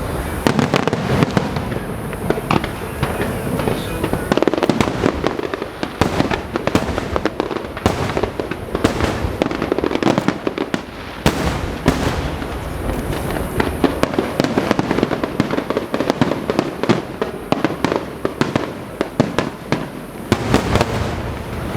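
Aerial fireworks going off in quick succession: many sharp bangs and crackling bursts overlapping one another without a break.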